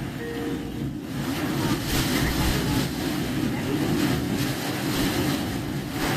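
Car driving through standing floodwater in heavy typhoon rain, heard from inside the cabin: a steady rush of tyres ploughing through water and rain on the body. The car's engine runs underneath.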